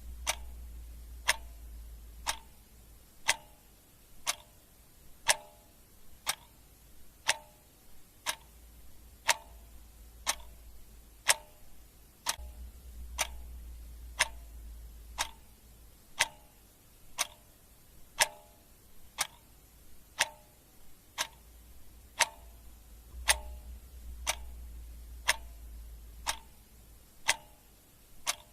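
Clock ticking steadily, one sharp tick about every second. A faint low hum rises and fades underneath a few times.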